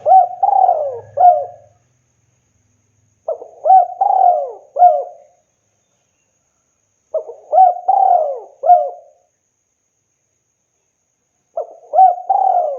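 Spotted dove (tekukur) cooing: a short phrase of three or four coos repeated about every four seconds, four times.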